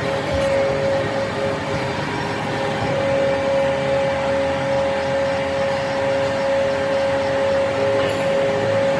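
A machine running steadily, with a constant whine over a dense rumbling noise.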